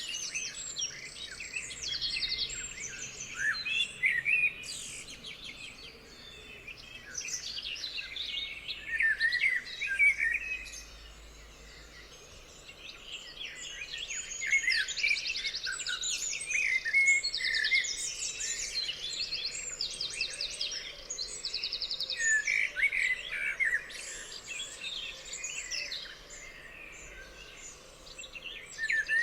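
Several songbirds singing at once: overlapping chirps, whistled phrases and fast trills of rapidly repeated notes, with a brief lull about ten seconds in.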